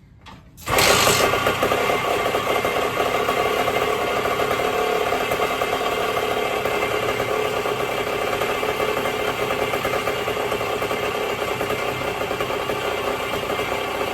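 1974 Indian SE74 dirt bike's Minarelli P4-70 two-stroke engine starting suddenly under a second in, then running steadily, idling on its own after a carburetor rebuild and points reset.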